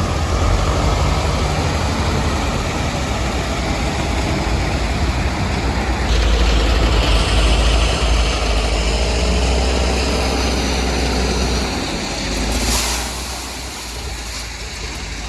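Heavy machinery engine running steadily and loudly. Its sound shifts about six seconds in, and there is a brief sharp noise near the end, after which it runs a little quieter.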